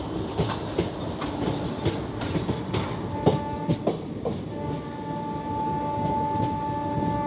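Passenger train running, heard from the open door of a moving coach: wheels clack over the rail joints. A locomotive horn gives a short toot about three seconds in, then a long steady blast from about four and a half seconds.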